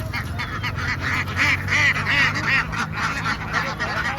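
A large flock of domestic ducks calling all at once, a dense clamour of overlapping quacks, over a steady low hum.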